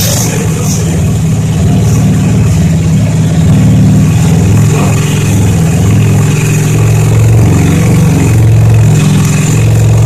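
Majestic 250 scooter engine, a single-cylinder four-stroke, running steadily with small rises and falls in engine speed. It runs now that a dirty contact at the wiring adapter has been cleaned.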